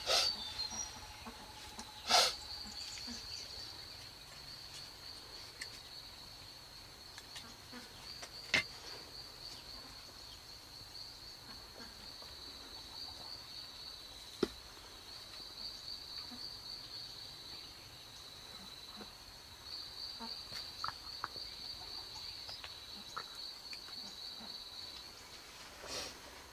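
An insect trilling steadily in a high, rapidly pulsing chirr that breaks off briefly a few times, with a few sharp knocks, the loudest about two seconds in.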